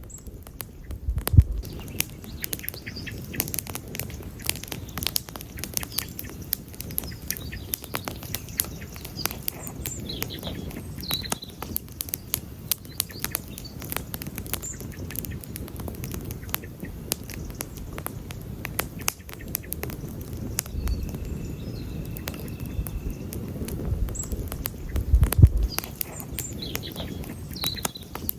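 Campfire crackling, with many sharp snaps and pops over a low rumble of burning wood, and two louder low thumps, about a second in and near the end. Faint bird chirps come through now and then.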